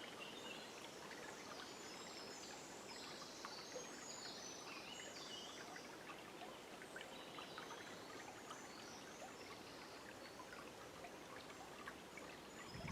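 Faint river water flowing steadily, with many small birds chirping in short, high notes.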